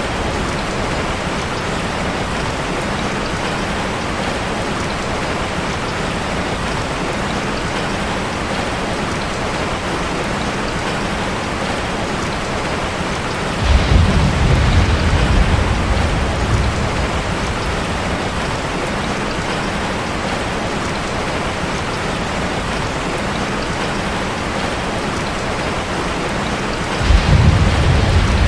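Steady heavy rain drumming on a metal roof. A low rumble comes in suddenly about halfway through and lasts a few seconds, and another starts near the end.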